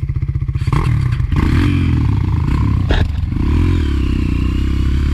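Honda CRF dirt bike engine running at low revs on a steep muddy descent, louder from about a second in. A sharp clatter comes about three seconds in.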